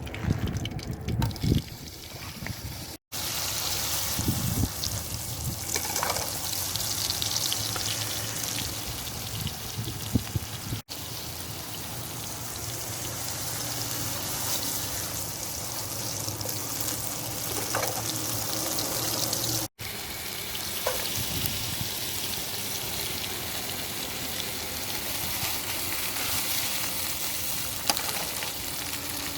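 Liquid cooking in a pan, a steady bubbling and sizzling hiss. It breaks off briefly three times.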